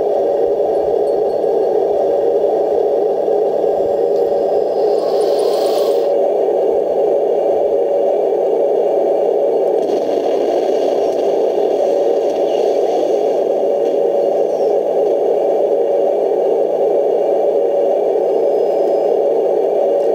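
Radio-controlled Leopard tank model's new electric drive motor and transmission running at a steady speed, a constant whir with a scraping rattle of gears and tracks, and a brief higher hiss about five seconds in.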